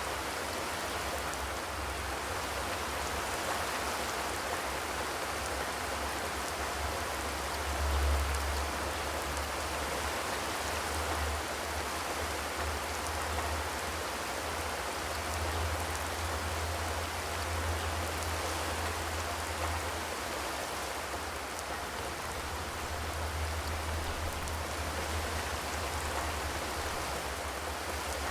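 Steady rain falling on a corrugated zinc roof, an even patter without thunder, over a low rumble that swells now and then, most strongly about eight seconds in.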